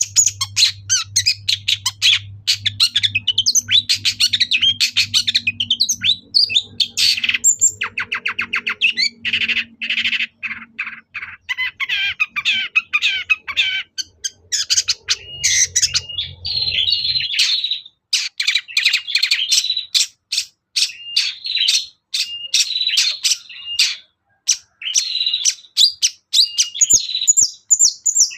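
Long-tailed shrike (cendet) in full song: a fast, continuous chatter of short, sharp notes, with phrases copied from other birds' songs mixed in. A low hum underlies the song until it stops about 17 seconds in.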